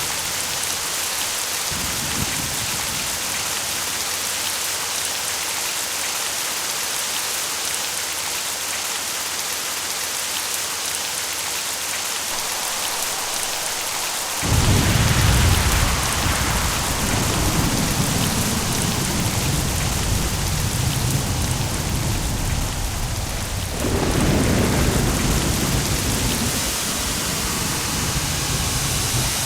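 Steady heavy rain hissing, with thunder rumbling in twice: a sudden deep roll about halfway through, then a second roll a few seconds later that fades away.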